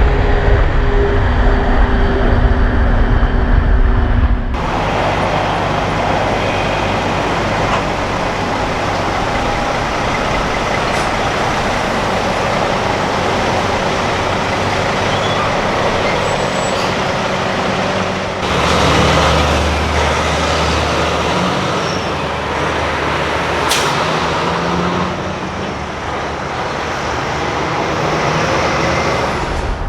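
Heavy trucks driving past on a road, with engine drone and road noise that change abruptly twice as one passing truck gives way to another.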